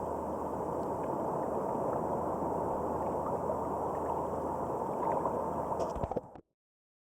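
Steady rush of water and wind noise in the surf, cutting off abruptly to silence about six seconds in.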